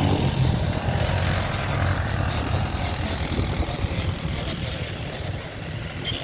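Jet airliner's engines passing by, loudest at the start and slowly fading.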